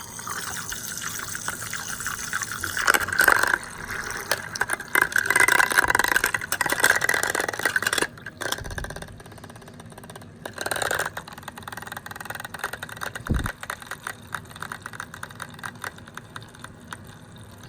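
Water splashing and sloshing in a mini beauty-sponge washing machine as makeup brushes are rinsed in it. It is louder for the first several seconds, then settles down.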